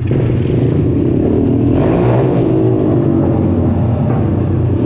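150cc petrol dirt bike engine idling with a steady low pulsing, its pitch rising and falling briefly about two seconds in as the throttle is blipped.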